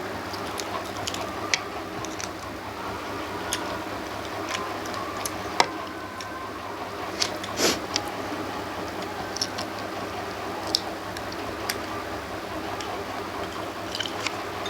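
A person eating rice and fish curry: chewing and soft squishing sounds with scattered small clicks and taps, the sharpest about halfway through, over a steady low hum.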